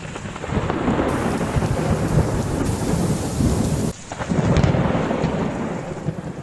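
Loud storm noise: a continuous rumbling roar with a rain-like hiss. It breaks off abruptly about four seconds in and starts again at once.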